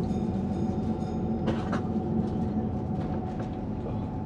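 Transwa WDA-class Prospector diesel railcar running along the track, heard from inside the carriage: a steady low rumble with a steady hum, and a couple of light clacks about one and a half seconds in.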